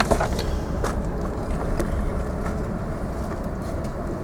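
Steady low rumble of cabin noise inside a taxiing Airbus A380, engines and ground roll, with a few light clicks near the start and about a second in.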